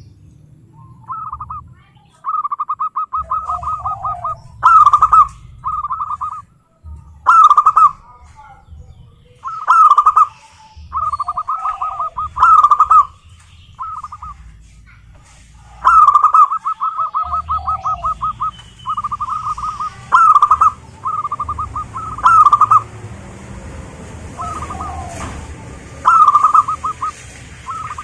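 Zebra dove (perkutut) cooing over and over: phrases of quick rolling, staccato coos, several opening with a louder accented note, some phrases drawn out into longer trills.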